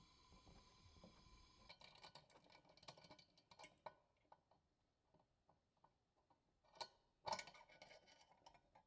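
Near silence with scattered faint clicks and ticks, a few slightly louder taps about seven seconds in.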